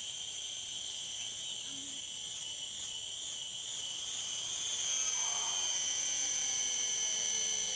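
Night insects, crickets, chirring steadily in several high-pitched layers, growing louder about four to five seconds in.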